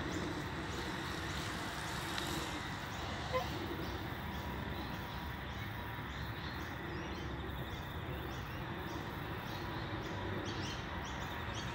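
Outdoor ambience: a steady low background rumble, with a small bird giving short high chirps, about two a second, from about four seconds in and more densely near the end.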